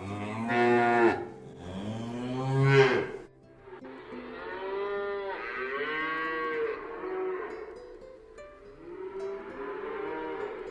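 Cattle mooing: two loud moos in the first three seconds, then several quieter moos.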